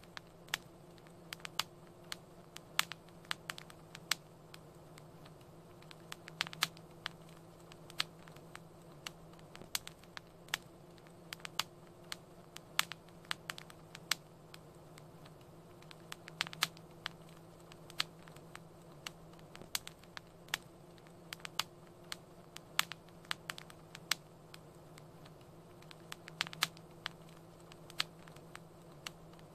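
Wood fire crackling: irregular sharp pops and snaps, several a second and bunching into brief flurries, over a steady low hum.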